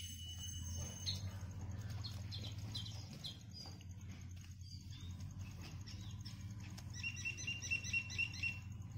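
Small birds chirping: scattered short chirps, then a quick run of about eight repeated chirps near the end, over a steady low rumble.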